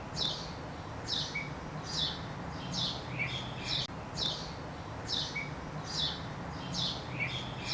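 A bird calling over and over, short high chirps that fall in pitch, about one a second, over a faint steady hum.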